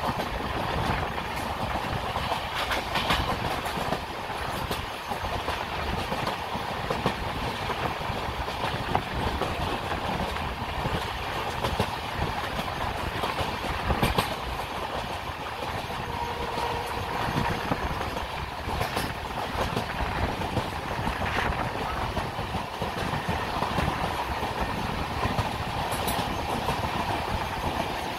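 Moving Indian Railways express train's passenger coaches running along the track, the wheels clattering steadily over the rails with scattered sharper knocks from rail joints.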